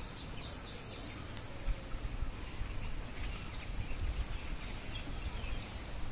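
Outdoor ambience: faint bird chirps over a low, uneven rumble on the microphone.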